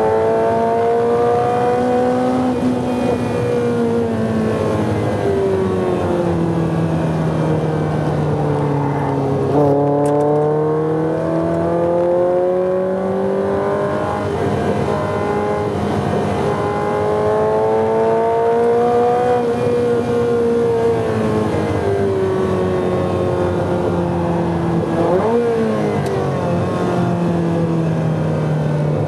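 Ferrari 348's 3.4-litre V8 heard from inside the cabin while lapping a circuit, its pitch rising slowly under acceleration and falling away under braking over and over. Two quick sharp jumps in pitch come about ten seconds in and a few seconds before the end.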